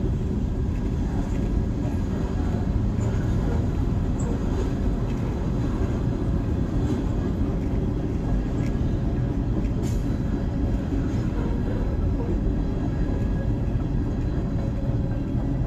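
Freight train cars rolling past in a steady, continuous rumble.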